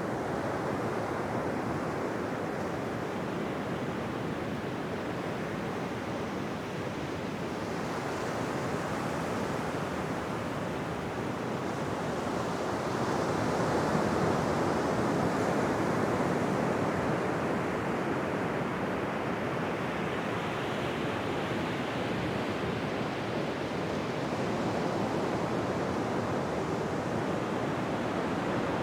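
Ocean surf washing onto a beach: a continuous rush of breaking waves that swells up about halfway through and again near the end.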